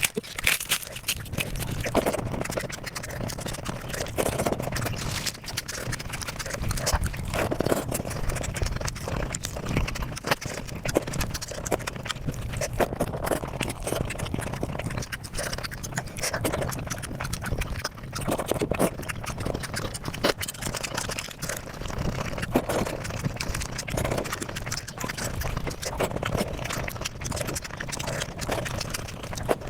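Close-miked eating sounds played back very fast: rapid chewing, crunching and mouth smacks in a dense run of clicks, with a louder smack about every second or two.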